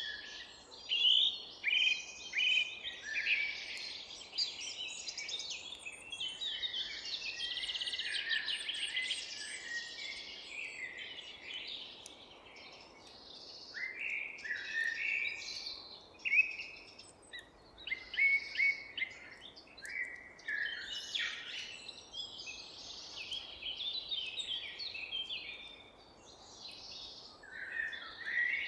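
Several songbirds singing and chirping together in a forest chorus, with overlapping trills and short calls, over a faint steady background hiss.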